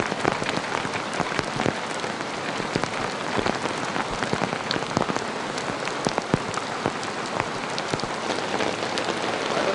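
Heavy rain falling steadily, a dense hiss with many close, sharp drop impacts on a hard surface.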